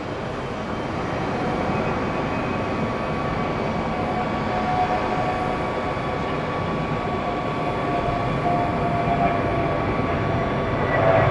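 Four-engine Boeing 747-8F freighter's jet engines running, a steady rushing noise that slowly grows a little louder, with faint whining tones over it.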